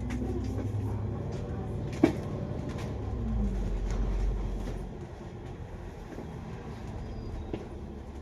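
Running noise heard inside a double-decker bus: a low engine and road rumble with a falling whine as the bus slows, and a sharp clunk about two seconds in. The rumble drops to a quieter idle about five seconds in.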